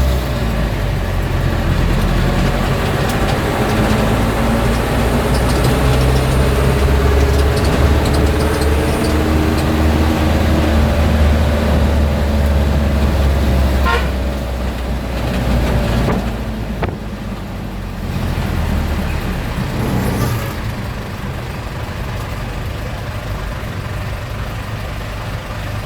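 Old classic car's engine running under way, heard from inside the cabin, its pitch sliding with speed. About fourteen seconds in it drops to a quieter, steady running, and a short horn toot sounds among the street traffic.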